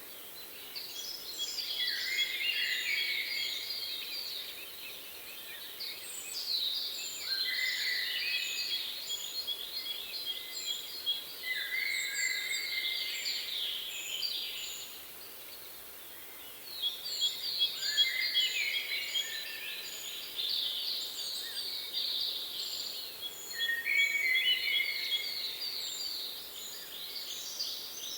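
Songbirds singing: bursts of quick, repeated chirps that come back every few seconds, with short high notes above them and a brief lull about halfway.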